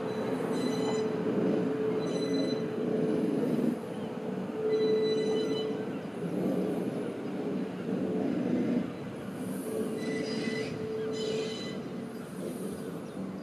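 Hitachi Azuma electric train passing slowly, with a steady running noise and an on-off humming tone from its drive. Brief high-pitched squeals from the wheels come and go several times.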